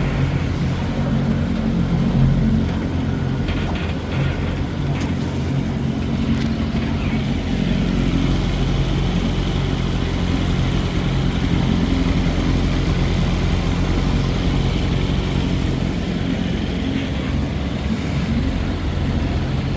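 Johnson 20 hp outboard motor running steadily at a constant speed underway, with a low, even engine note.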